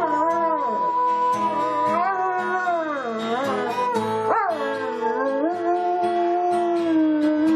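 A dog howling in long, wavering notes that slide up and down, over guitar music.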